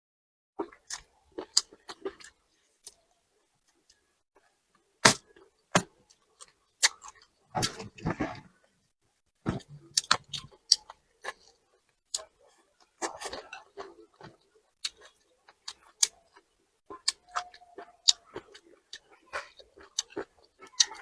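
Eating sounds at a meal: irregular sharp clicks of chopsticks and utensils against bowls, mixed with chewing, with a denser clatter about 8 seconds in.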